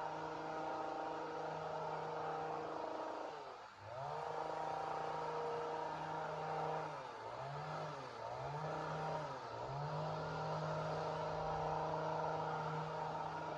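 Two-stroke chainsaw running at high revs. Its engine speed drops and climbs back once about four seconds in, then dips briefly three times in quick succession a few seconds later before holding steady again.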